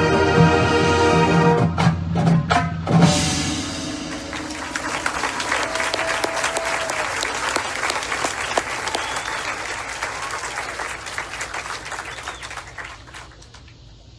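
Marching band's brass holding a final chord over drum hits, cut off sharply about three seconds in, followed by audience applause that slowly fades away.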